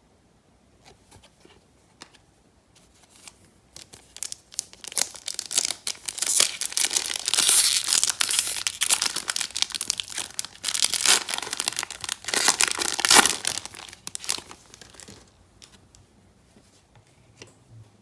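A crinkly plastic or foil trading-card pack wrapper being torn open and crumpled by hand: a run of crackling and tearing that starts faintly, grows loud for about ten seconds, then dies away.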